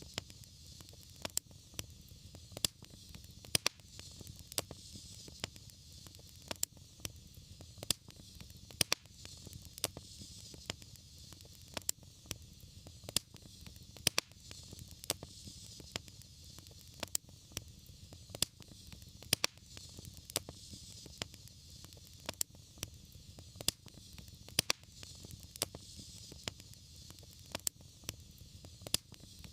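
Wood fire crackling steadily, with sharp irregular pops over a soft hiss and low rumble of flame.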